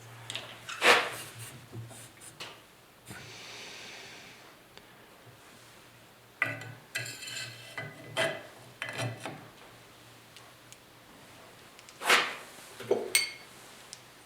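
Metal motorcycle parts clinking, knocking and scraping by hand as a shock absorber and its washers are fitted, with a few sharp clinks that ring briefly and a soft scrape a few seconds in.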